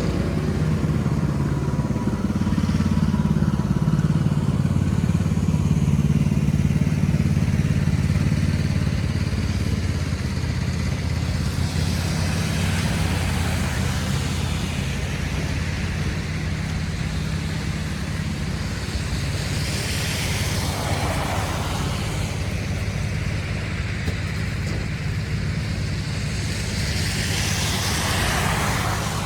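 City street traffic: a steady low engine rumble, with three vehicles passing one after another, each a rising and fading hiss.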